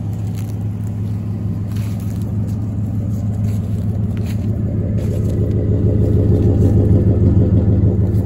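1999 Ford F-150's 4.6-litre V8 idling through a true dual exhaust with Flowmaster two-chamber mufflers and no catalytic converters: a deep, steady exhaust rumble that grows somewhat louder through the second half.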